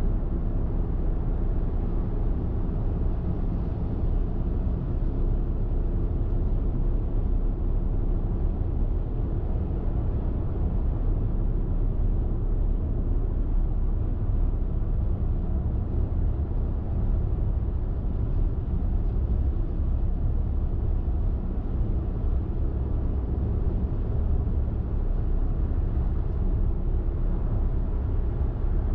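Car driving at highway speed: steady low rumble of tyres on the road and engine drone, with no change in pace.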